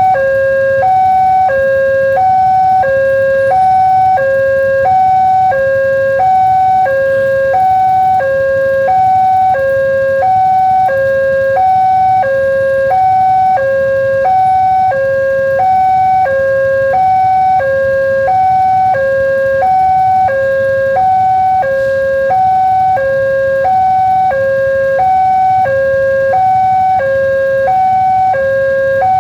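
Railway level-crossing warning alarm sounding continuously, an electronic two-tone signal alternating steadily between a high and a low note: the warning that a train is approaching and the gates are closing. A low rumble runs underneath.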